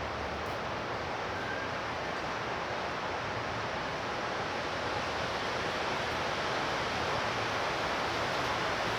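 Heavy rain pouring in a steady rush, growing a little louder in the second half.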